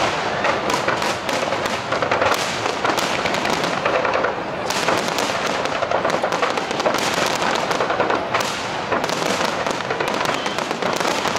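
Aerial fireworks shells bursting one after another, with a dense, unbroken crackle of pops and bangs from the shells and their stars.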